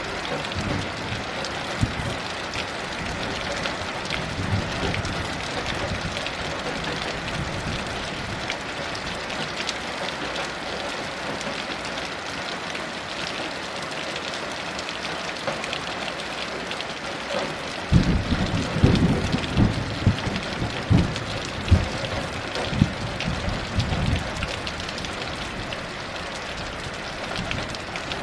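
Heavy rain falling in a steady hiss, with a roll of thunder about two-thirds of the way through: several low rumbles and jolts over some six seconds, then the rain alone again.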